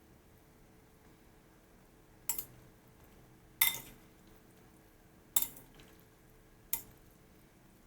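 Utensil clinking against a dish: four separate clinks, each with a short ring.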